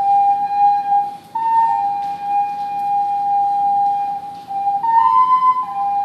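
Ocarina playing a slow melody: one long held note with a short step up about a second in, then a brief higher phrase near the end before the tune steps back down.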